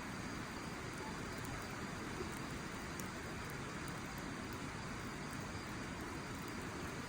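Wood fire burning in a fire stand, with a few faint, sharp crackles over a steady rushing noise.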